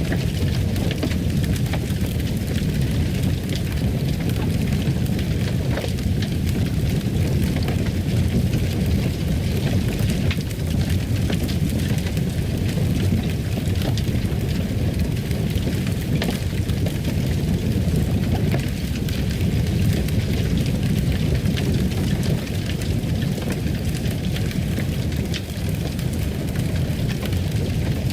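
Fireplace wood fire burning with a steady low rumble and scattered sharp crackles and pops.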